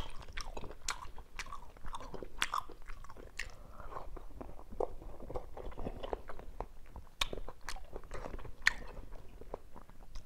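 A man chewing and eating close to a clip-on microphone: irregular small mouth clicks and smacks as he eats soft cooked cucumber and minced pork with rice.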